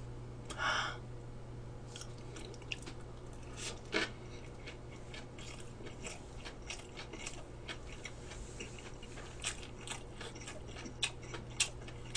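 Close-miked chewing of a mouthful of pork cutlet gimbap, heard as many small, faint mouth clicks scattered through the chewing.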